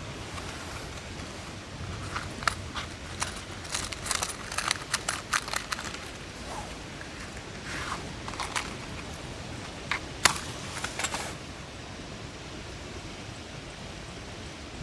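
A run of irregular clicks, taps and rustles, densest in the middle and sharpest about ten seconds in, over a steady background hiss.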